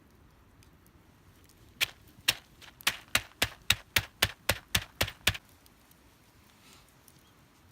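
A quick run of about a dozen sharp knocks, spaced a little apart at first, then coming about four a second before stopping.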